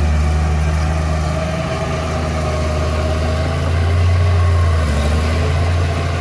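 Heavy diesel machinery engine running with a steady low drone, growing louder about four seconds in and then easing back.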